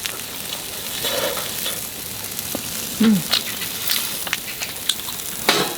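Food sizzling in a frying pan as a steady hiss, with a few sharp clicks scattered through it.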